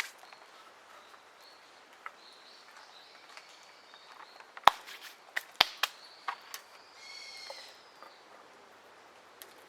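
A bird gives a drawn-out, harsh call about seven seconds in. Before that comes a quick run of sharp clicks and knocks, the loudest sounds here, over faint outdoor background.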